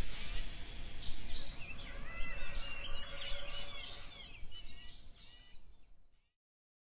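Birds chirping, many short quick calls over a low background hiss, fading out and then cutting to silence shortly before the end.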